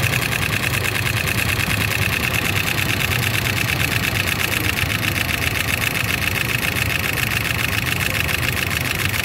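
A 2013 Toyota Land Cruiser's 3UR-FE 5.7-litre V8 idling just after being started, with a fast, steady tapping running through the engine note. The tapping comes from the rear cylinders of bank 1 and was traced to a clogged VVT-i oil control solenoid valve on the bank 1 intake side that was restricting oil flow.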